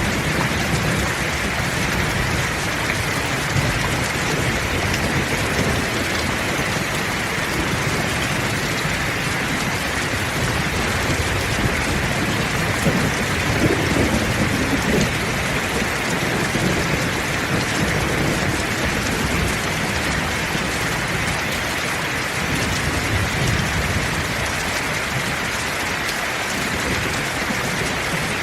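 Steady heavy rain falling, a dense even hiss. A low rumble of thunder swells and fades about halfway through.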